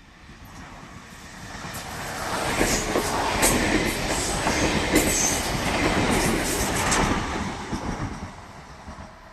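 A train passing by: it swells in, runs loud for about five seconds with the clicking of wheels over the rails, then fades away.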